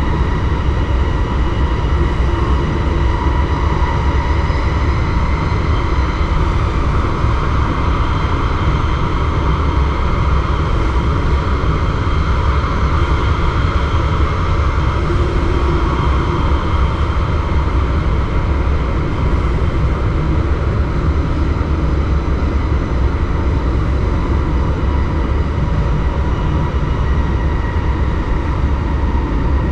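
Driver's-cab interior of an NS DDZ double-deck electric train running along the line: a steady low rumble with a constant high whine over it, unchanging throughout.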